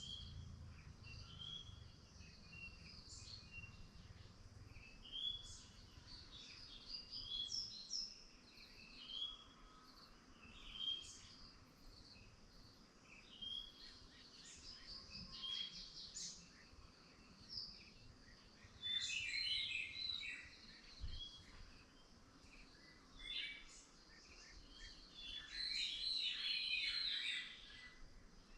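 Several wild birds chirping and calling: short high chirps and quick trills scattered throughout, with louder bursts of rapid chirping about two-thirds of the way in and again near the end.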